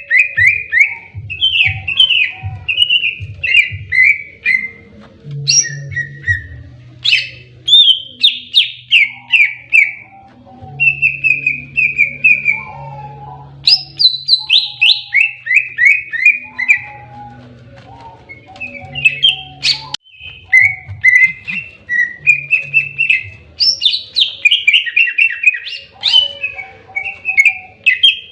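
Greater green leafbird (cucak ijo) singing in its aggressive fighting ('tarung') song: loud, high-pitched runs of quick, sharply falling notes, in repeated phrases broken by short pauses.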